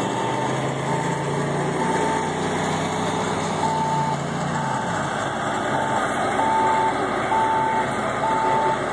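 1994 GMC K1500 pickup's engine running hard under load in a pull, its pitch held steady and then dropping about four and a half seconds in as the pull ends. A backup alarm beeps about once a second throughout.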